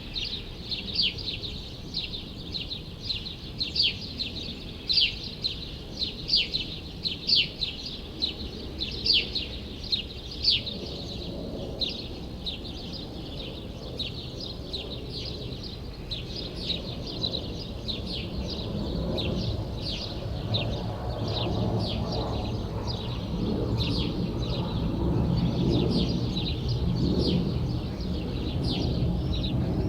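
Small birds chirping over and over, short high chirps a couple of times a second, loudest in the first third. A low rumble of city noise, traffic-like, swells under them from about halfway through.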